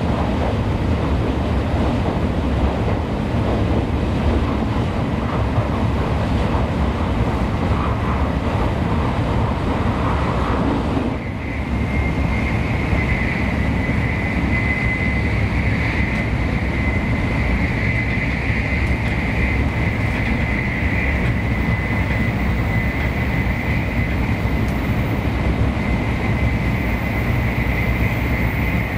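Running noise inside a Tokaido Shinkansen passenger car at speed: a steady rumble and rush. About eleven seconds in it dips briefly, and after that a steady high whine runs on.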